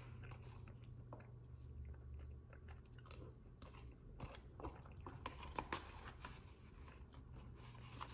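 Quiet chewing of a mouthful of soft microwaved chicken enchilada bake, with a few faint clicks of the fork in the bowl, over a steady low hum.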